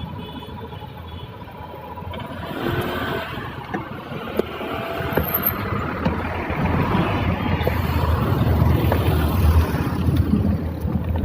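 Road traffic noise: engines and tyres of passing vehicles, a steady rumble that grows louder over the second half.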